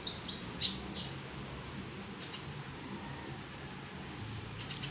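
Small birds chirping: short, high, thin chirps in scattered groups of two or three, over faint steady background noise.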